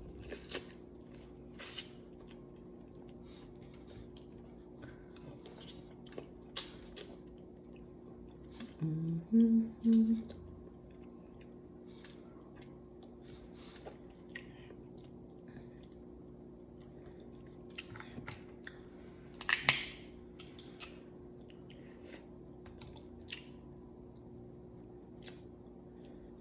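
Close-up eating sounds: chewing and mouth smacks, with small clicks and crackles as seafood shells are picked apart by hand. Two short low hums come about nine seconds in, and a louder crackle comes near twenty seconds.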